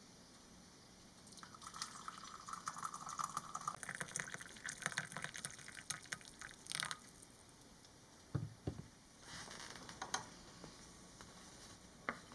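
Liquid, likely the brewed tea, being poured into a cup in uneven splashy spells, with two dull knocks about two-thirds of the way through.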